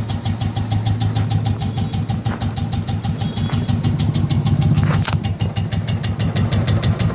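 Royal Enfield motorcycle engine idling with a rapid, even ticking, about ten ticks a second. The uploader puts the 'tik tik' down to the decompressor gear and says it is not a serious fault.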